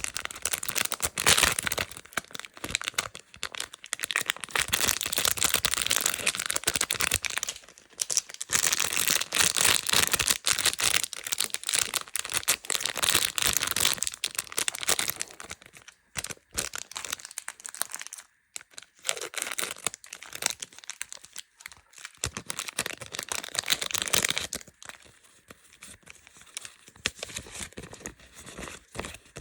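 Plastic candy wrappers crinkling and tearing as sweets are unwrapped, a dense crackle for the first half that turns sparser and quieter later on.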